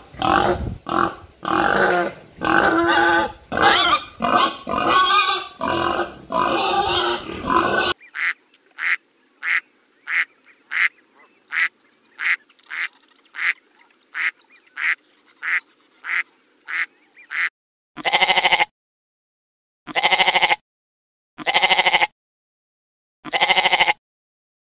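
Pigs grunting and squealing in a dense, overlapping run for about eight seconds. Then a duck quacks in a steady series, about two quacks a second. Near the end a goat bleats four times, about two seconds apart.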